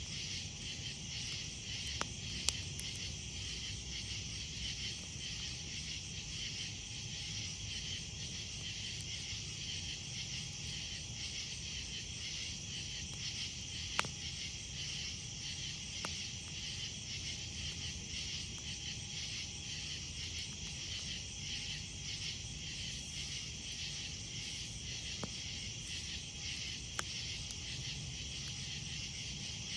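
A steady chorus of night insects, crickets, trilling in a fast, even pulse, with a handful of sharp single pops from the crackling campfire.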